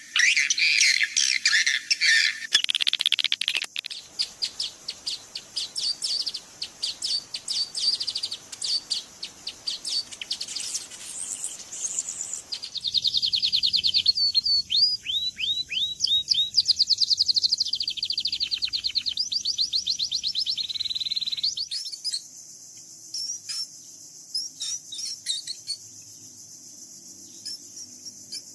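Songbirds chirping: first dense rapid chirps, then about ten seconds in a run of loud, fast trilled phrases of quick falling notes, then sparser, fainter chirps over a steady high hiss for the last few seconds.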